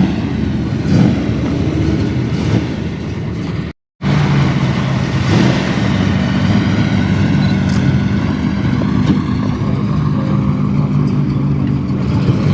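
Car engines running at a car show, steady and low-pitched, with a brief drop to silence at an edit about four seconds in; after it one engine runs steadily.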